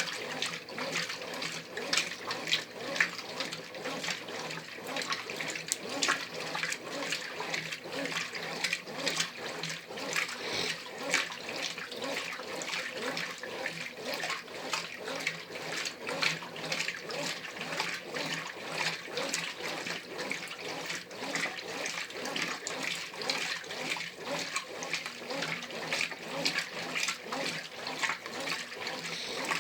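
Brastemp Ative 11 kg top-load washing machine agitating a wash load on its heavy cycle: water and clothes sloshing and splashing in the tub without pause, with many irregular small knocks.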